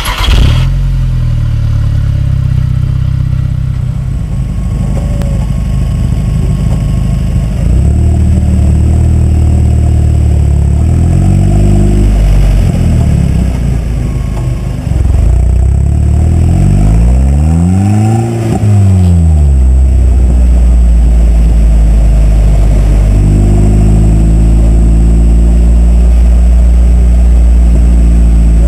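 KTM X-Bow GT's Audi-sourced turbocharged 2.0-litre inline four-cylinder engine running, its low note changing pitch several times as the revs go up and down, with one sharp rise and fall about eighteen seconds in. A sharp click comes right at the start.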